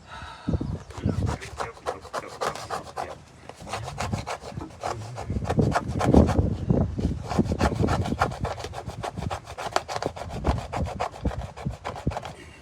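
Rapid back-and-forth rubbing and scraping strokes on wooden brick mold being worked in a Bondo filler repair, a steady rasping that keeps going without a break.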